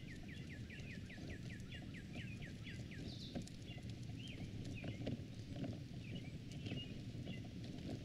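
A songbird singing a quick run of about a dozen repeated down-slurred notes, roughly four a second, then a few scattered varied chirps. Under it runs a steady low rumble of footsteps on the trail and distant city noise.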